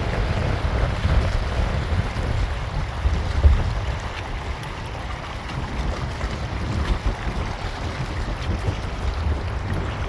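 Wind buffeting the microphone in irregular gusts, a low rumble over a steady hiss of rain and open-air ambience.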